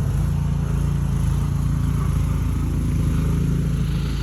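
An engine running steadily nearby, a constant low hum with an even rhythm.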